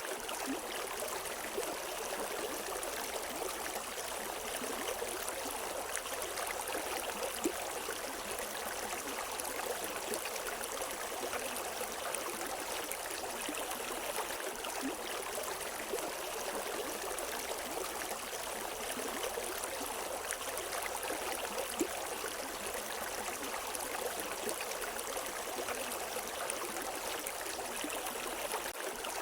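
River water flowing and splashing over rocks, a steady rushing with small splashes scattered through it.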